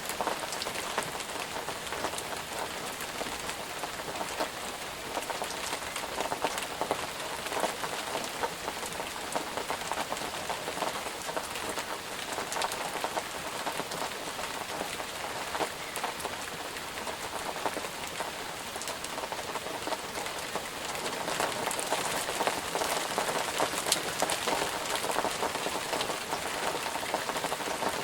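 Steady rainfall pattering on a surface, with many individual drops ticking sharply.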